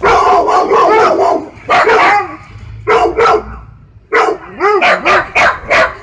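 Husky-type sled dogs barking: a dense run of barks in the first second or so, then short pairs of barks, and a quick series of about six barks near the end. Each bark rises and falls in pitch.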